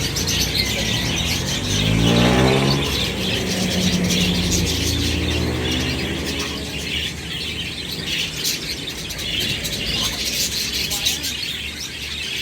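Lovebirds chirping and chattering continuously in a busy, overlapping stream of high calls. About two seconds in, an engine passes in the background, rising in pitch and fading out a few seconds later.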